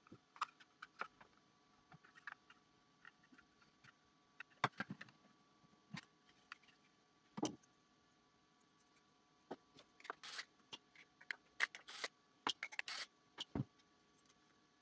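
Irregular light clicks, taps and knocks from small hard parts being handled, with a heavier knock about seven and a half seconds in and short scraping rustles around ten to thirteen seconds in.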